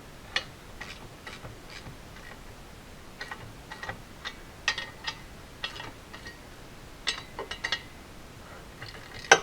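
Bolts being tightened with a wrench on the cast-iron pedestal stand: sharp metallic clicks in small irregular groups, the loudest one near the end.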